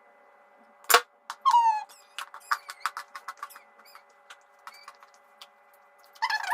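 Crunchy chalk being bitten and chewed close to the microphone. A sharp crack comes about a second in, then a brief squeak and a run of small crackles, and a louder crunch near the end.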